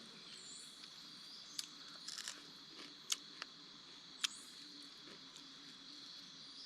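Insects droning steadily at a high, even pitch, with about a dozen sharp, irregular clicks or crackles scattered through.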